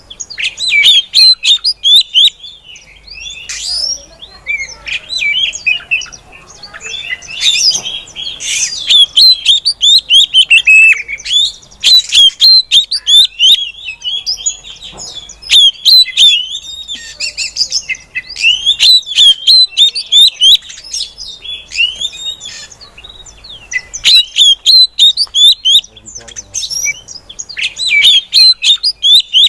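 Female oriental magpie-robin (kacer) calling: bursts of quick, sharp chirps and whistled notes, repeating every few seconds.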